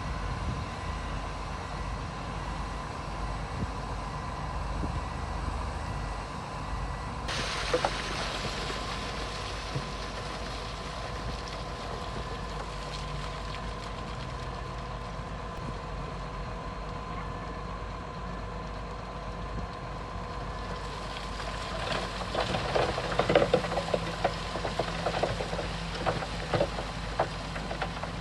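Diesel engines of heavy earthmoving machines running steadily, with a stretch of irregular metallic clanking and knocking about three-quarters of the way through.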